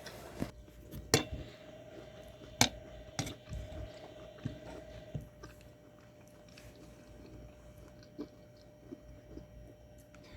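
Close-miked chewing of food, with a few sharp crunchy bites in the first few seconds, then softer, quieter chewing.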